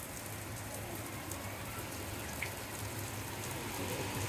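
Heavy rain falling steadily onto a flat, water-covered concrete roof, a constant hiss of splashing with the odd sharper drop striking close to the microphone.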